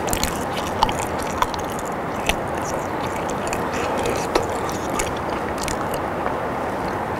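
Close-miked chewing of soft boiled potato: irregular wet mouth clicks and smacks over a steady background hiss.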